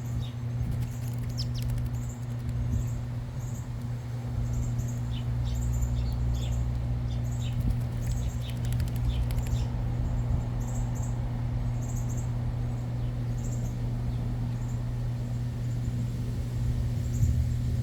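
Small backyard birds giving short, high chirps, scattered irregularly throughout, over a steady low hum.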